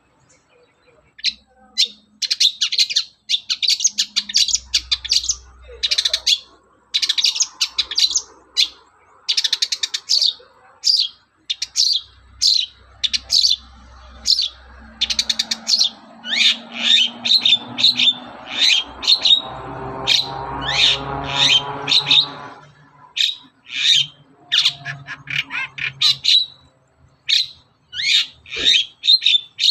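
Long-tailed shrike (cendet) singing in bursts of rapid, sharp, high chirps and trills with short breaks between phrases. It is vigorous full song of the kind played as a lure to set caged shrikes singing.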